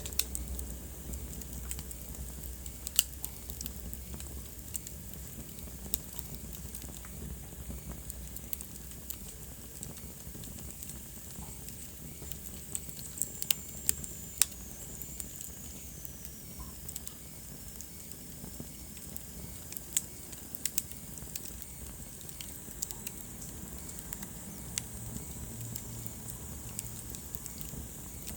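Wood fire burning in a fireplace: a steady soft hiss with irregular sharp crackles and pops. About halfway through, a faint high whistle slowly falls in pitch.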